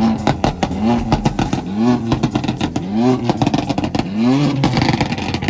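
A performance car engine being revved in repeated quick blips, about five, each rising and falling in pitch, with a rapid crackle of exhaust pops throughout.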